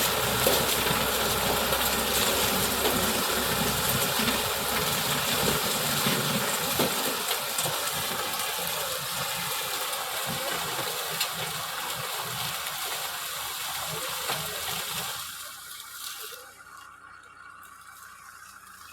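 Sugarcane harvester's engine and machinery running with a loud, broad rushing noise, its low rumble easing off over the first several seconds; the whole sound drops away fairly suddenly about fifteen seconds in.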